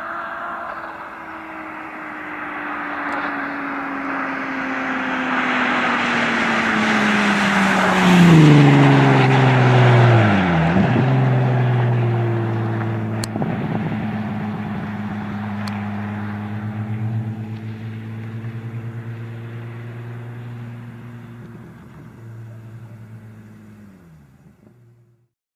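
Volkswagen Golf Mk1 driving past. The engine note grows louder and falls in pitch as it goes by, dips sharply and picks up again about ten seconds in, then holds a steady lower note while fading into the distance.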